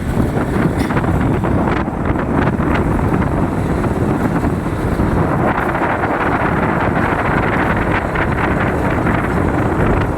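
Steady loud low rumble of road vehicles with wind buffeting the microphone.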